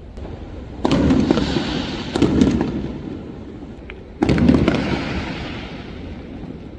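Fireworks exploding: three loud bangs, the first about a second in, the next just over a second later, and the third near the middle. Each trails off in crackling and hiss.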